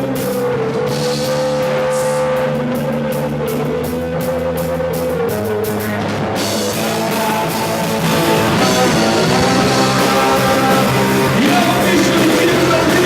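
Rock band playing live, with guitar and drums under sustained melodic lines. About six seconds in the cymbals and high end fill out, and the band gets louder a couple of seconds later.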